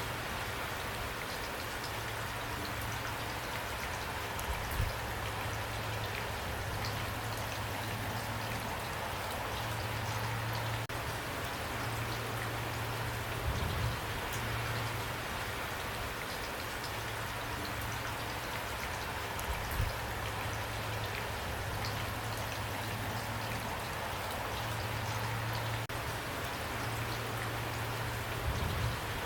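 Steady rain falling, an even patter of drops with a few single louder drops knocking now and then. Under it runs a low hum that fades in and out.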